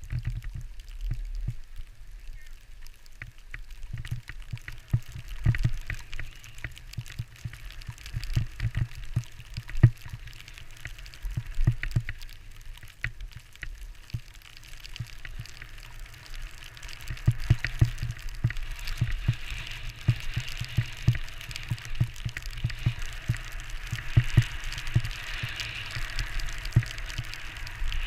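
Skis sliding and scraping over snow with a steady hiss, louder in the second half, while wind buffets the microphone in low, uneven rumbles.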